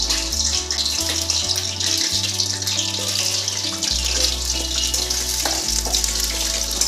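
Potato chunks sizzling steadily in hot mustard oil in a steel kadai as more pieces are dropped in to fry. A background music track with a low bass line runs underneath.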